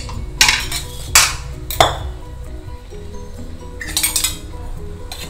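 Stainless steel cookware clinking and clanking as a pressure cooker and its lid are handled: three sharp clanks in the first two seconds and a small cluster about four seconds in, over soft background music.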